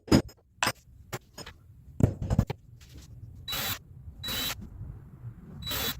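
A few sharp knocks and clatters of handling in the workshop, then three short bursts of a power tool, each about a third of a second long.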